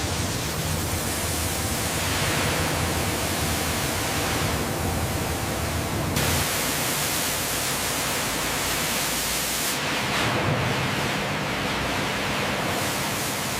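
Steady, loud hissing noise like a spray, with no rhythm. It changes character abruptly about six seconds in and again about ten seconds in.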